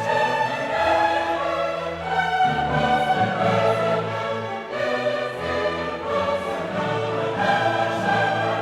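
Choir singing with an orchestra: classical choral music in sustained chords that shift every second or so.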